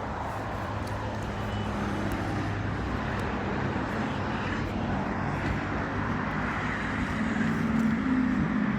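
Motor vehicle noise: a steady low engine hum under a hiss, growing a little louder and higher near the end.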